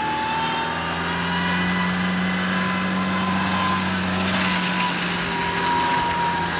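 Fiat Uno hatchback's engine running steadily, its pitch climbing slightly over the first few seconds and then holding.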